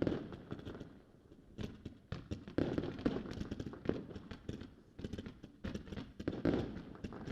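Fireworks going off: a dense run of sharp cracks and crackles, with heavier booms every second or two.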